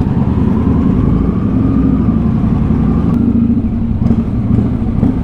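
Motorcycle engine running steadily under way, with a faint thin whine that rises slightly in pitch and fades out about three seconds in.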